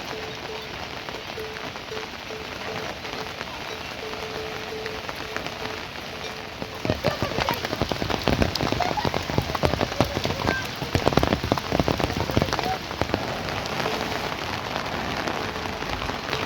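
Rain falling steadily, turning into a louder, denser patter of drops about seven seconds in.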